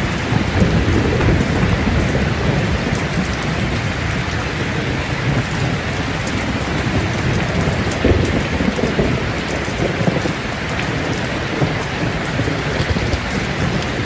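Steady rain falling, with low rumbling thunder rolling underneath, swelling about halfway through.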